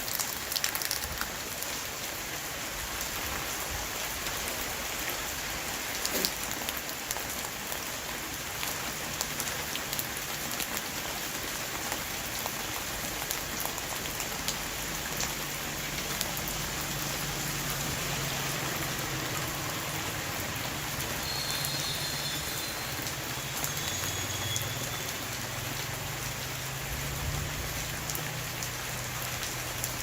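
Heavy rain shower falling on a roof: a steady even hiss of rain with scattered sharp drop impacts. A faint low drone joins in during the second half.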